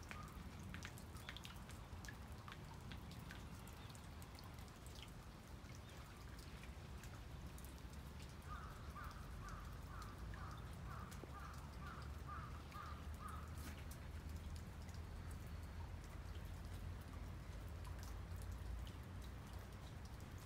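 Faint outdoor ambience with a low rumble and scattered small ticks, and a bird calling a quick run of about a dozen short, evenly spaced notes, roughly two a second, for about five seconds in the middle.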